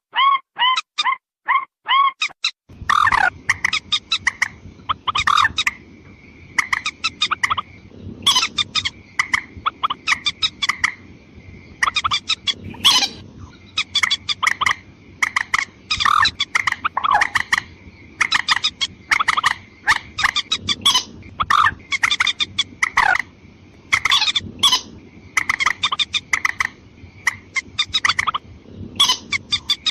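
Recorded lure call of waterhens (mandar), female and male together: a dense, rapid series of short, sharp calls repeated many times a second with hardly a pause. A faint steady tone and low background noise come in about three seconds in.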